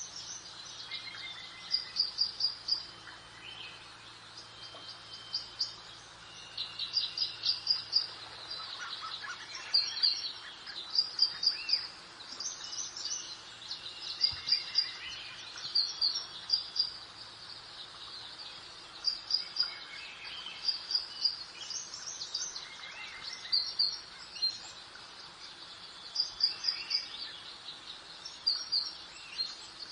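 Birds singing in a garden: short, high, rapid chirping phrases repeated every second or two, several overlapping, over a faint steady hiss.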